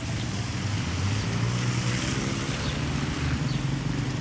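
A motor vehicle's engine running with a steady low hum, under a steady hiss of rain and water.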